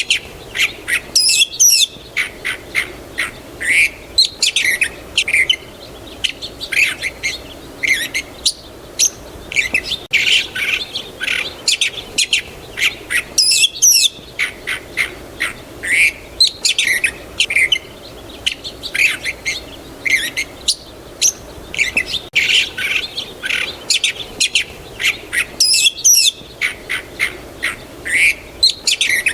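Songbirds chirping and singing, a dense run of short high calls and trills. The same passage comes round about every twelve seconds, as a looped recording does.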